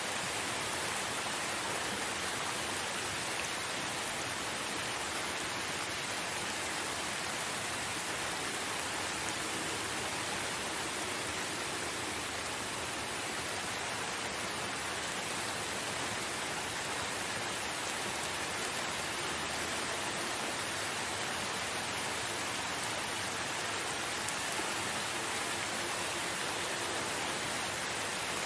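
Steady rain falling in a forest: an even, unbroken hiss of rainfall.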